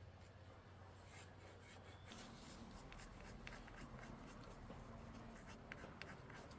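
Near silence, with faint rubbing and scattered light ticks.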